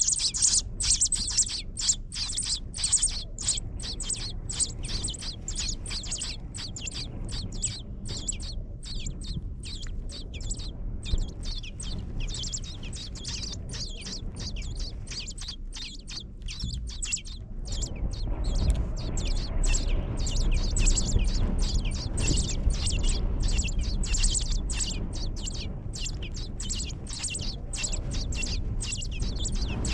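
Nestling birds chirping in quick, high, continuous series. A low steady rumble runs underneath and grows louder about two-thirds of the way through.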